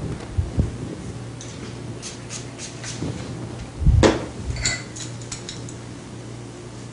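Handling noises: a few dull thumps, the loudest about four seconds in, and runs of light sharp clicks like small hard tools being picked up and set down, over a steady low hum.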